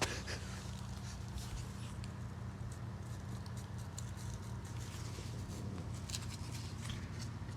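Puppies moving about: small scattered clicks and scuffles, over a steady low hum.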